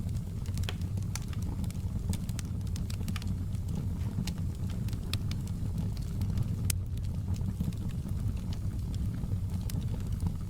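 Wood logs burning in a fireplace: a steady low rumble of flames with irregular sharp crackles and pops.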